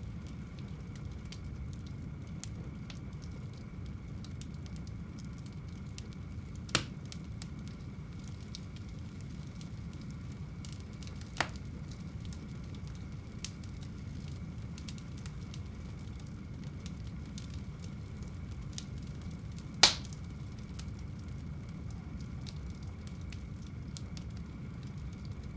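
Wood fire burning in a home fireplace: a steady low rumble of flames with faint crackling throughout and three sharp pops, about 7 and 11 seconds in and, loudest, about 20 seconds in.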